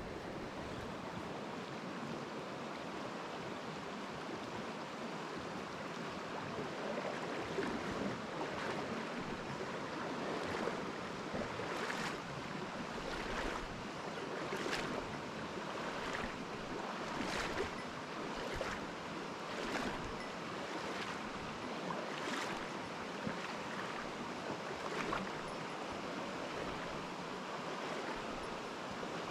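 Mountain stream rushing steadily over rocks. From about a quarter of the way in until near the end, short sharp sounds come at irregular intervals every second or two.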